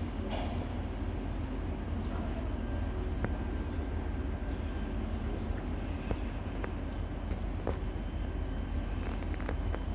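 Low, steady rumble of a train approaching from a distance on an electrified line, with a few faint clicks.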